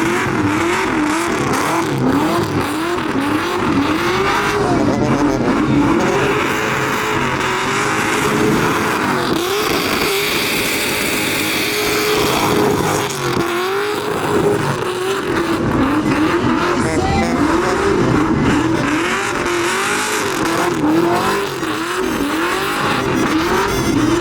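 Truck engine revving hard in repeated surges, its pitch rising and falling over and over. Tires squeal, loudest for a few seconds near the middle.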